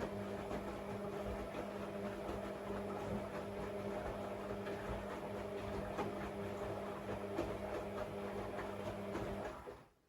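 An electric motor running steadily with a hum and a light rattle of clicks, winding down and stopping near the end.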